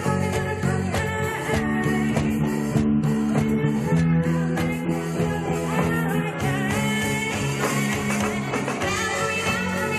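A rock band playing: electric guitars and bass holding chords over a steady drum beat, with little or no singing.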